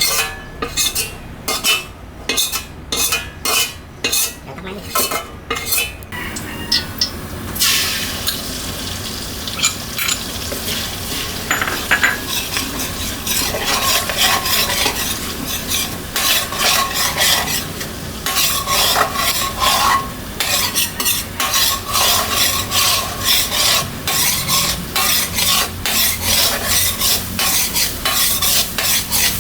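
A metal spatula tapping and scraping in a cooking pan, quick regular taps for the first several seconds, then food sizzling loudly as it is stir-fried, with the spatula scraping through it.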